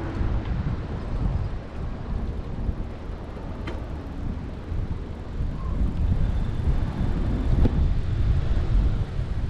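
Wind buffeting the microphone during a bicycle ride on a trail, a low uneven rumble, with a sharp click near four seconds and another near eight.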